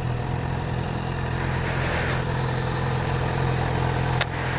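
Motorcycle engine idling steadily close by, with a single sharp click a little over four seconds in.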